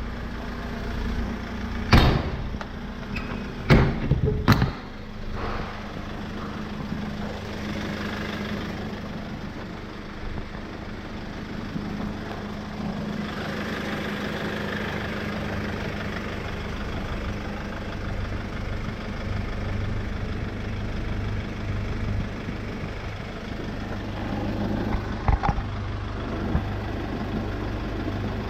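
Hyundai Porter truck's engine idling steadily, with a few sharp knocks in the first five seconds and another near the end.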